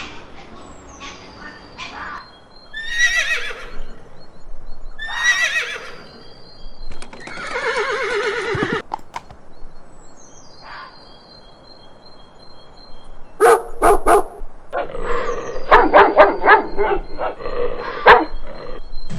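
A horse whinnying, two or three long falling, quavering neighs, then a dog barking repeatedly in the second half. Short high bird chirps sound faintly throughout.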